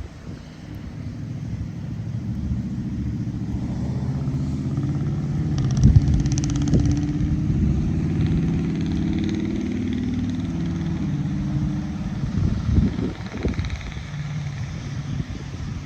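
A motor vehicle driving past, its engine growing louder to a peak about six seconds in and then fading away, followed by low rumbling gusts.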